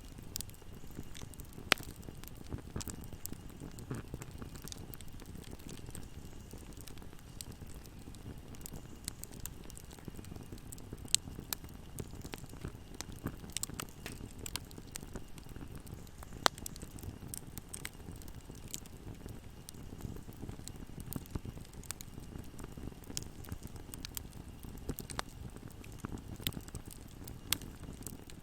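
Fire crackling in a fireplace: a steady low rumble of burning with frequent sharp pops and snaps. A few louder cracks stand out, about two, eleven and sixteen seconds in.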